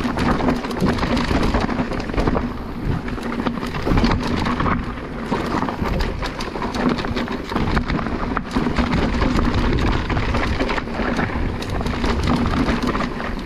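Electric mountain bike riding over a rough, rocky trail: a continuous rumble and rattle of tyres and bike over stones, with many small knocks and wind buffeting on the microphone, and a steady low hum under it.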